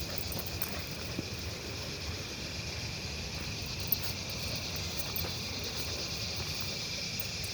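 Crickets chirring in a steady, unbroken high chorus, with one sharp click about four seconds in.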